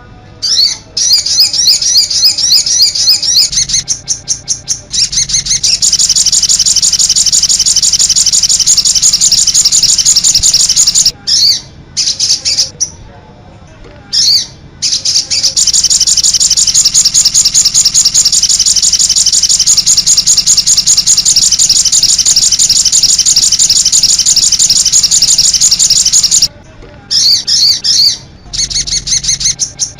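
Loud, rapid, high-pitched songbird song: a continuous warbling chatter, played as a masteran tutor recording for training songbirds. It is broken by a few abrupt cuts to silence, once near the start, twice around the middle and once near the end.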